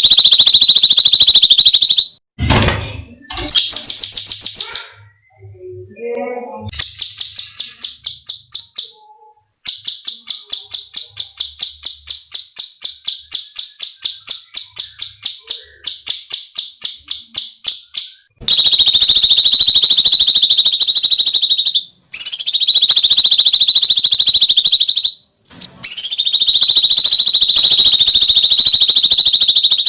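Cucak cungkok songbird calls: long, shrill screeching notes held for several seconds at a time. In the middle, a fast rattling run of about five notes a second lasts for around ten seconds.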